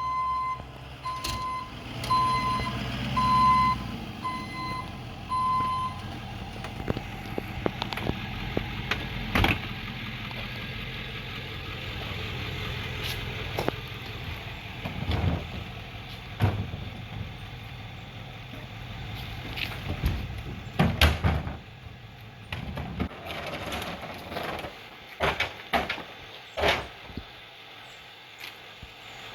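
Ford F-250 recycling pickup with a Par-Kan EZ Dump body. Its backup alarm beeps repeatedly for the first six seconds or so over the running engine. Then the engine keeps running while bangs and clattering thuds come every few seconds, heaviest about twenty seconds in and near the end, as residential recycling is collected.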